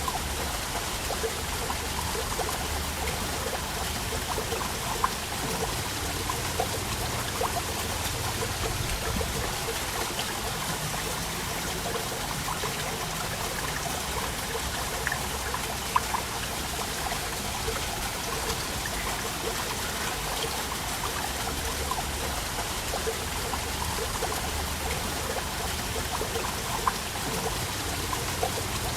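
Waterfall: water falling and splashing in a steady rush, with a few brief sharper splashes.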